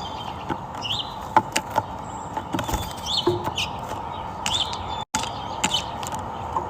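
Birds chirping: a short rising call repeated about every second and a half, with scattered sharp clicks over a steady background hum.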